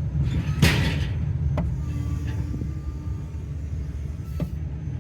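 Pickup truck engine idling steadily, with a brief hissing rush about half a second in and two sharp clicks, one early and one near the end.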